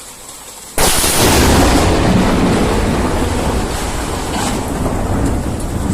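A sudden, loud, deep rumble sets in about a second in and carries on, slowly easing off.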